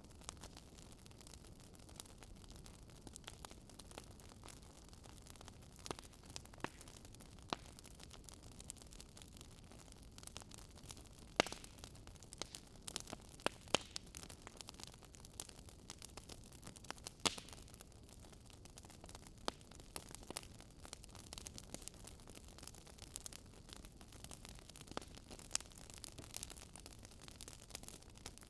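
Wood fire burning in a fireplace: a faint steady hiss with frequent irregular crackles and pops, the sharpest cluster a little before the middle.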